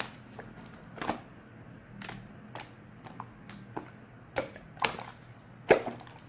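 Slime being squeezed and pressed by hand, giving sharp little clicking pops at uneven intervals, about ten in six seconds.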